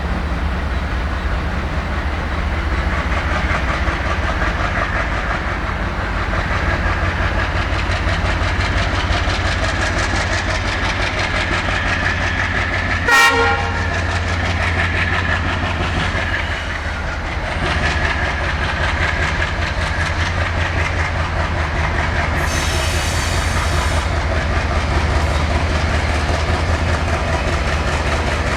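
Diesel-hauled Indian Railways passenger train running past at speed, its wheels clattering steadily over the rail joints under a constant low rumble. About halfway through there is a brief sharp tone, and a thin high-pitched ringing follows some seconds later.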